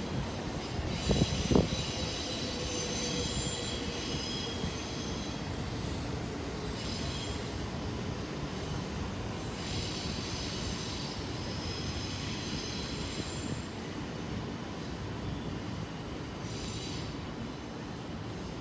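Train rolling slowly on the rails with its wheels squealing several times in short spells. Two sharp clanks about a second in.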